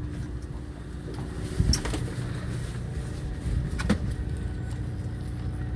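Fishing boat's engine running with a steady low hum, with a few faint clicks and knocks on deck.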